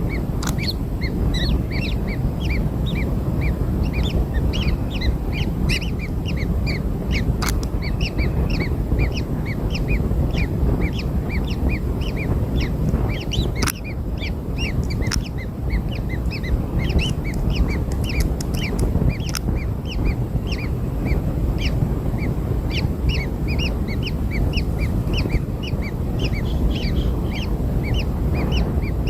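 Newly hatched kingfisher chicks cheeping, short high chirps repeated rapidly and continuously, typical of nestlings begging for food. A steady low rumbling noise runs underneath, with a few sharp clicks.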